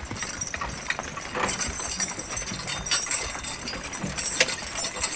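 Draft horses' hooves stepping unevenly, with scattered knocks and clinks from harness and logging gear.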